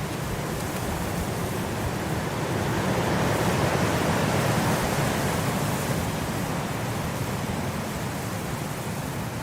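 Blizzard wind: a steady rush of wind-driven noise that swells into a stronger gust in the middle and then eases off.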